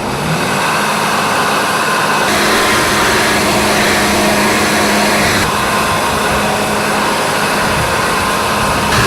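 Heavy engines of road-works machinery running steadily, a dense mechanical din with a low hum underneath. The sound changes abruptly twice.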